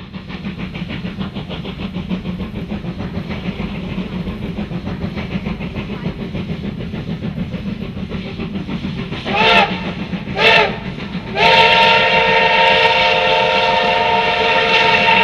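Train running with a rhythmic clatter of wheels over the rails, then the CT273 steam locomotive's whistle: two short toots about nine and a half and ten and a half seconds in, then one long blast of several tones together from about eleven seconds on.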